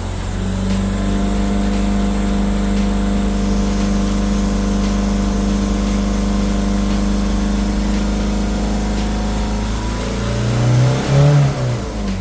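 Ford Focus engine running steadily while the transmission's shift learning procedure is carried out, with the pedals held. Near the end the engine speed rises briefly and drops back.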